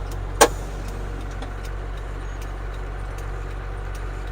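Ford CF7000's 6.6 L Brazil diesel engine running steadily while driving, with one sharp click about half a second in.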